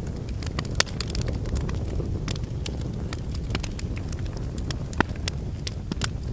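Logs burning in a fireplace: a steady low rumble of flames with frequent crackles, and two louder pops, one about a second in and one about five seconds in.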